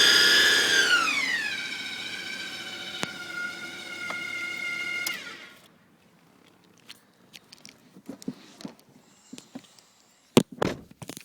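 Hummer H3 automatic transmission whining: a loud, high whine of several tones drops in pitch about a second in, holds steady, then glides down and stops about five and a half seconds in. It is the cold-start noise of a failing torque converter and transmission oil pump. Scattered faint clicks and knocks follow.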